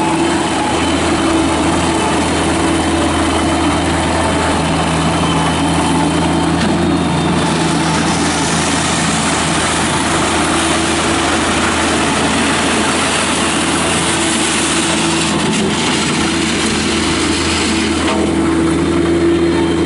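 Kubota diesel engine of a Bobcat MT85 mini track skid steer loader, a remanufactured replacement engine, running steadily at an even speed.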